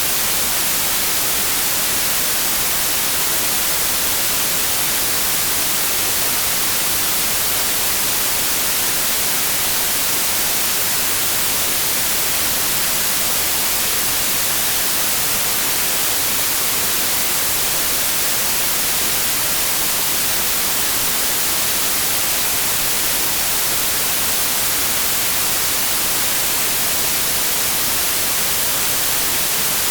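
Steady white noise: an even, unbroken hiss that never changes in level or character.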